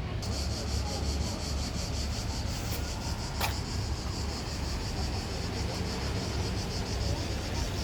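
Cicadas buzzing in a fast, even pulse, over a low steady rumble, with a single sharp click about three and a half seconds in.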